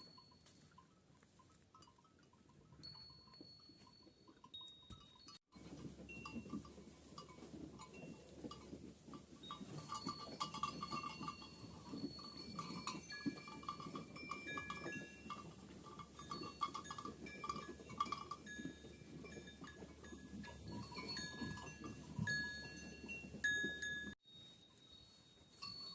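A flock of Kangal sheep with bells, many bells clinking at different pitches over the shuffling of the flock, with a bleat or two among them.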